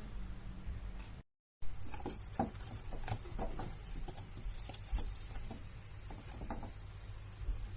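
Scattered light clicks and taps at an irregular pace over a steady low hum, with a brief dropout about a second in.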